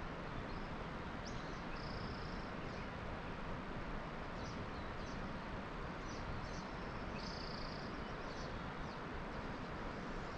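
Steady outdoor background noise with brief, high chirps now and then, from birds or insects.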